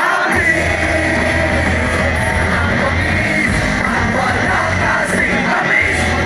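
Live rock band playing loud, distorted, punk-tinged rock with a singer, the bass coming in heavily a moment in, heard from within the concert crowd.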